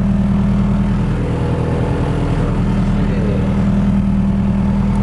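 Car engine idling at a steady pitch, stupid loud, from a stripped-out car whose body shakes with it.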